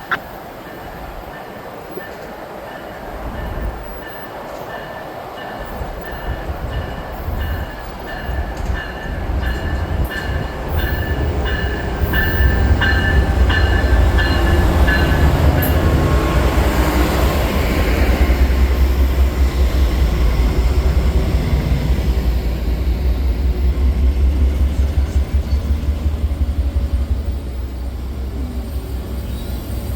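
Amtrak passenger train pulling into a station behind a P42 diesel locomotive: the locomotive bell rings in steady repeated strokes for about the first half, while the low diesel rumble swells and stays loud as the locomotive comes alongside.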